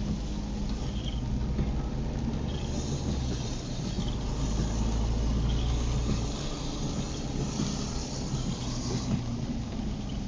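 Car driving on a wet road in the rain, heard from inside the cabin: steady engine and road noise with a hiss of tyres on water. The low rumble swells from about four to six seconds in, and a faint short high sound repeats about every second and a half.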